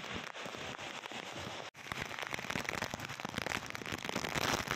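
Heavy rain falling as a dense crackling patter. It breaks off for an instant a little under two seconds in, then picks up again and is loudest near the end.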